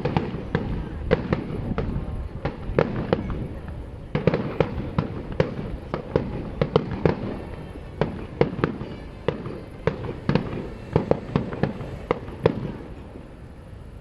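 Fireworks display: a rapid, irregular string of aerial shell bursts and bangs, several a second, over a continuous low rumble.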